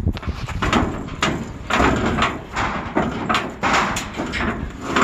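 Heavy metal chiller parts scraping and knocking as they are worked loose and shifted, in an irregular run of rough scrapes and bangs about two or three a second.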